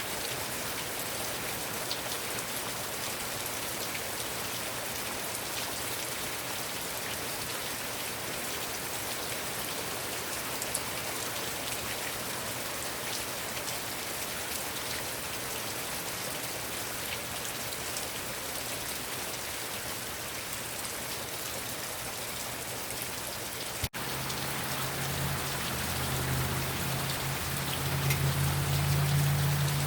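Heavy rain falling steadily, with scattered individual drops ticking. About 24 s in there is a brief dropout, after which a low steady hum joins the rain and grows louder toward the end.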